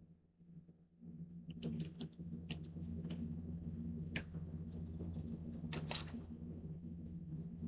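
Paper and tape being handled at a craft table: a string of sharp clicks and crinkles from about a second and a half in, over a steady low hum that starts about a second in.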